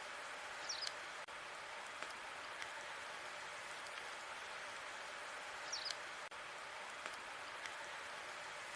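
Burning logs in a fireplace: a steady hiss of flame with scattered small crackles, and two brief high squeaks, about a second in and again about five seconds later.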